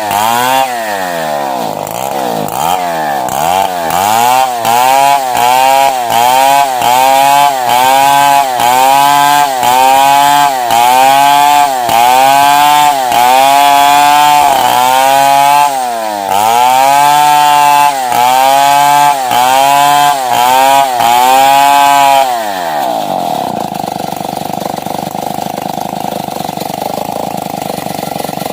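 Stihl 070 two-stroke chainsaw cutting lengthwise through a wooden beam, its engine pitch rising and dipping about once a second under load. About three-quarters of the way through it drops to a steady idle.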